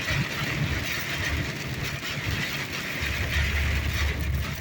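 Heavy rain on a moving car with the windscreen wipers on full speed, heard from inside the cabin as a steady hiss. A deep rumble grows in about three seconds in.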